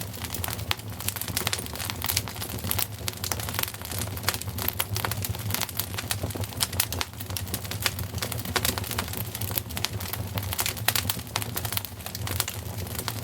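Wood fire crackling in a fireplace: many irregular pops and snaps over a steady low rumble.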